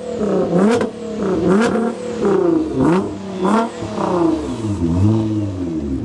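A car engine being revved over and over in quick blips, its pitch swinging down and up several times, then settling to a lower, steadier idle near the end.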